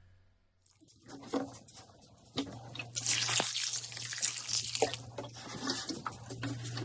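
Running water, as from a tap, starting softly and growing steady about three seconds in, with a few sharp knocks and clinks scattered through it.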